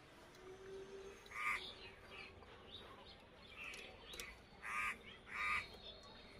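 Bird calls: three short, harsh calls, one about a second and a half in and two close together near the end, over a faint background.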